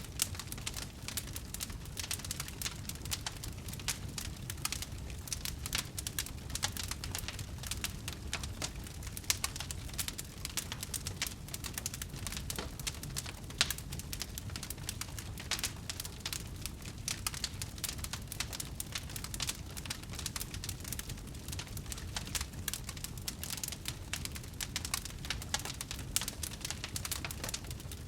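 Wood fire burning and crackling: dense, irregular small pops and snaps over a low, steady rumble of the flames.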